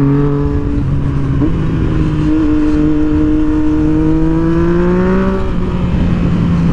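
Motorcycle engine running under way, its pitch climbing slowly as it accelerates and then dropping suddenly about five and a half seconds in at a gear change, over a steady low rumble of wind and road noise.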